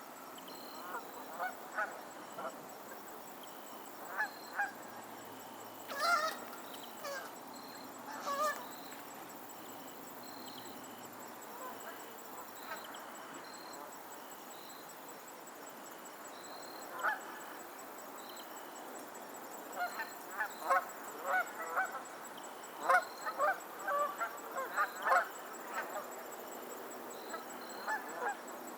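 Geese honking on a lake: short calls scattered at first, then a dense run of overlapping honks about two-thirds of the way through.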